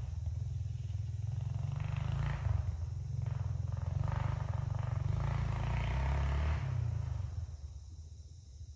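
Honda CRF125F's single-cylinder four-stroke engine running under way, with surges of engine and wind noise. It falls away and becomes much quieter about three-quarters of the way through.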